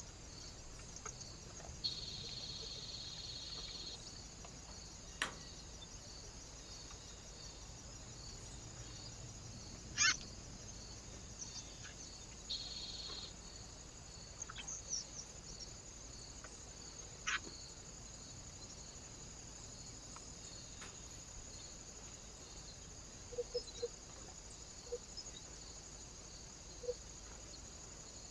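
Faint outdoor ambience with a steady, evenly pulsing high-pitched chirping, two short bird calls and a few sharp clicks or taps.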